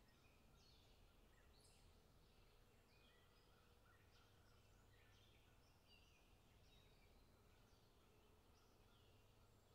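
Near silence, with many faint, short bird chirps repeating.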